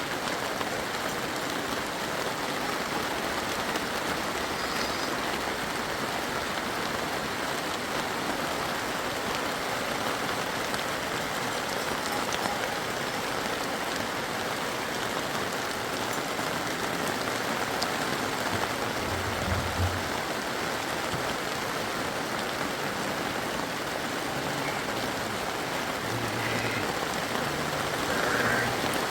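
Steady rain falling, a continuous even hiss, with a brief low thud about two-thirds of the way through.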